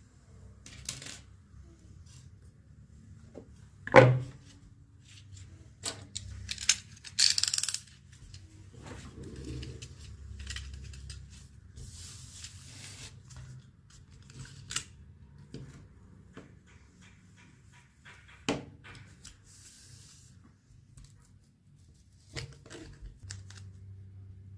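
Hand-crafting workbench noises: scattered taps and knocks of small pieces being handled and set down, two louder knocks, and a few short scraping or tearing sounds.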